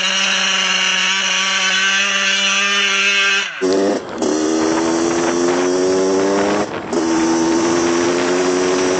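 2001 Yamaha YZ80's 80cc two-stroke engine running at high revs and held steady, then dropping sharply about three and a half seconds in and pulling up again, with two brief breaks in the sound as the throttle is cut.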